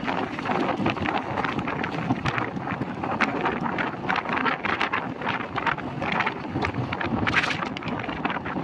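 Wind buffeting the microphone held out of a moving passenger train, over the steady running noise of the coaches on the track, with a constant patter of small clicks and rattles.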